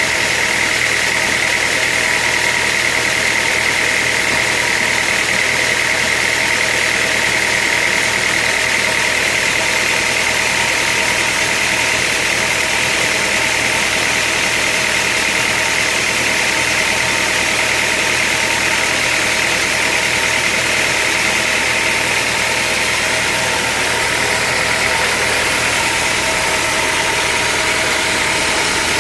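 Sawmill machinery running steadily: a loud, even mechanical drone with a high whine held on top, unchanging throughout.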